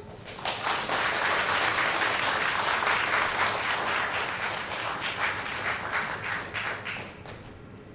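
Audience applauding at the end of a musical piece, starting about half a second in, holding steady, then thinning out and stopping near the end.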